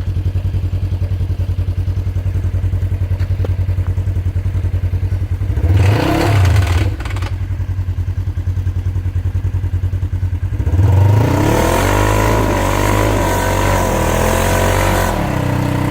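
Polaris RZR side-by-side engine running near idle, with a short rev about six seconds in. From about eleven seconds in it revs harder under load for some four seconds as it climbs a steep bank, then eases back.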